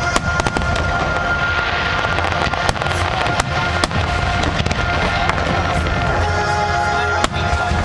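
Fireworks going off in a display: many sharp bangs and crackles in quick succession, over music playing along with it.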